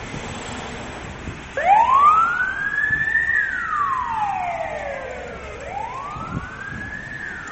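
Emergency-vehicle siren in a slow wail. It starts suddenly about one and a half seconds in, rises over about two seconds, falls away over the next two, then rises again near the end.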